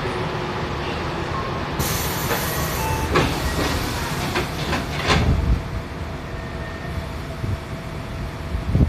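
Inside a Tokyo Metro 7000 series subway car: running rumble, with a burst of air hiss about two seconds in and a series of clunks. A steady electric motor tone sets in around the middle, and there is a heavy thump near the end.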